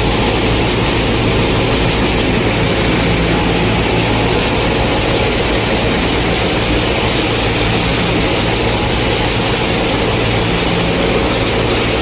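Combine harvester running steadily while harvesting corn: a constant engine hum under the even noise of the threshing machinery.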